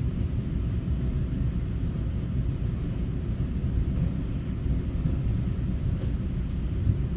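Steady low rumble of an EMU900 electric multiple unit train running on the rails, heard from inside the passenger car.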